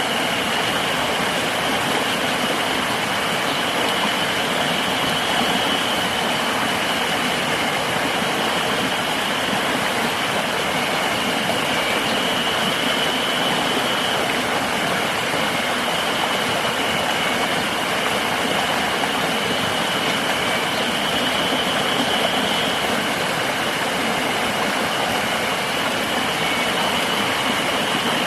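River water rushing steadily, with a continuous high-pitched insect drone over it that swells slightly every few seconds.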